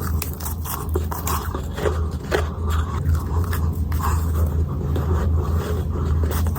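Ice being bitten and chewed close to the microphone: a string of crisp, irregular crunches over a steady low hum.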